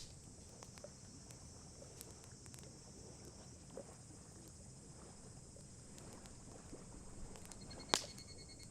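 Wood campfire crackling: sparse small snaps and ticks, with one sharp, louder pop near the end, over a steady faint high hiss.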